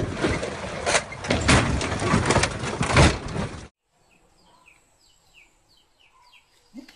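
Loud, rough noise with scattered knocks that cuts off suddenly a little past halfway, followed by a bird chirping faintly in a quick series of short, falling notes.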